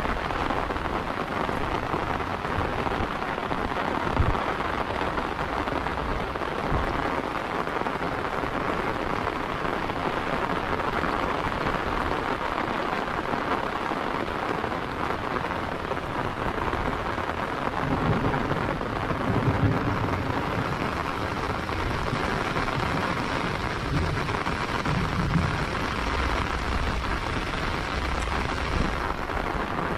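Heavy rain falling steadily, an even hiss on the paved path and foliage, with a few brief low rumbles and thumps, most around two-thirds of the way through.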